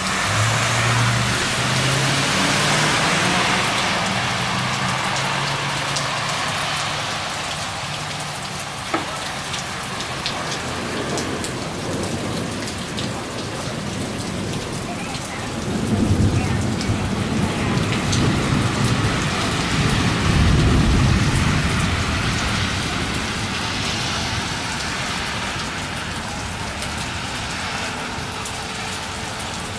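Heavy rain pouring down in a steady hiss, with a low rumble of thunder swelling from about 16 to 21 seconds in and a single sharp click about 9 seconds in.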